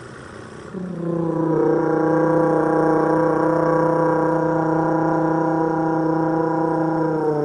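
A held vocal tone imitating the mid-range drone of a V10 engine: one steady note with a stack of overtones that starts about a second in, settles slightly lower soon after and dips in pitch at the end.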